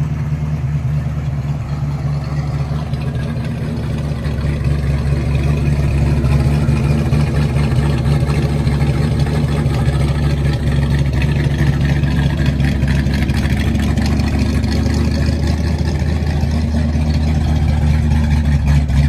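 Fuel-injected V8 of a 1958 Plymouth Fury idling steadily, a deep low rumble with the exhaust in its loud, open setting. It grows a little louder a few seconds in.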